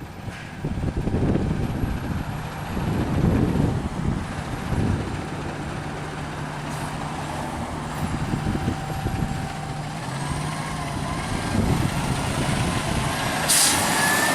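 Diesel engine of an E-One pumper fire engine running, its level swelling and easing. A burst of air-brake hiss comes near the end.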